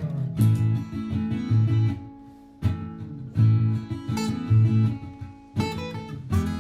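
Martin GPCPA4 acoustic guitar strumming chords over deep bass notes, with a sharp strum every one to three seconds; looped guitar parts from a looper pedal play underneath.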